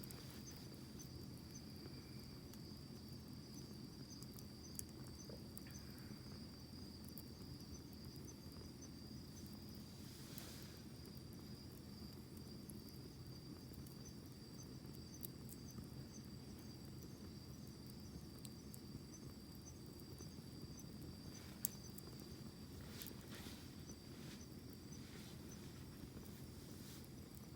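Wood campfire burning: a low steady rush of flames with scattered sharp crackles and pops, the loudest about two-thirds of the way in. A high, steady insect trill carries on behind it.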